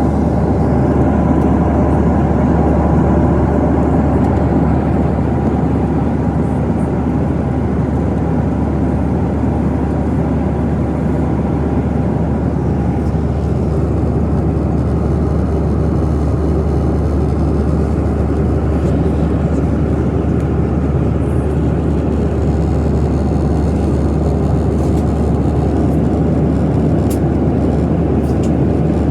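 Steady drone of a Boeing 737-900ER's CFM56-7B jet engines and rushing air, heard from inside the passenger cabin, with a few faint clicks near the end.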